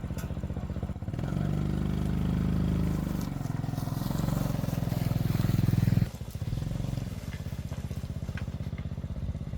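Small motorcycle engine running, picking up at about a second in and easing back after about six seconds.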